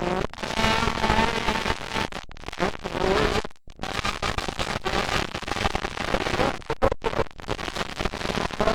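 Motocross dirt bike engines revving, their pitch rising and falling, with a rough crackle.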